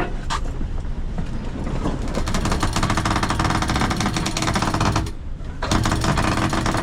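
Sailboat winch hoisting the mainsail on its halyard, a fast steady clatter of the winch's pawls. It stops briefly about five seconds in, then starts again.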